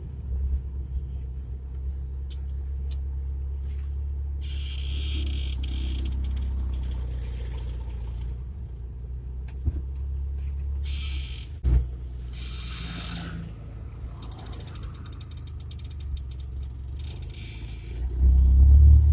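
UAZ engine and drivetrain rumbling inside the cab while driving, with repeated spells of creaking and rattling from the cab, a sharp knock about two thirds through, and a louder surge of engine rumble near the end.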